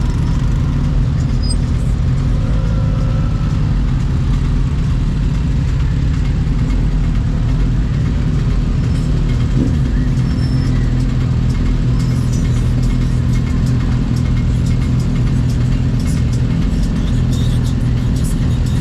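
Sport motorcycle engine running steadily at cruising speed, with constant road and wind noise.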